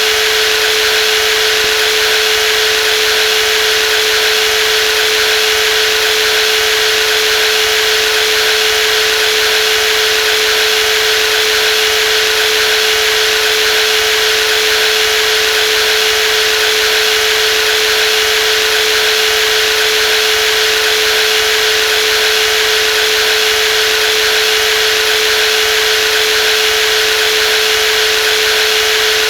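Brushless jigsaw running continuously at a steady speed: a constant hum with a hiss above it.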